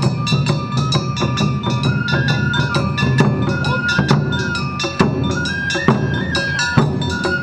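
Awa odori festival music: a stepping bamboo-flute melody over a rapid, even beat of metallic gong and drum strikes.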